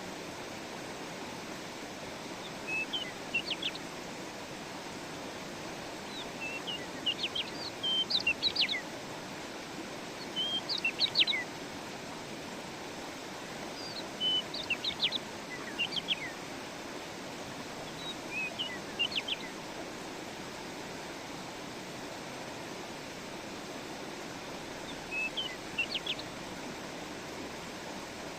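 A songbird singing short, high phrases of a few quick notes, repeated every three to four seconds, over a steady rushing background noise.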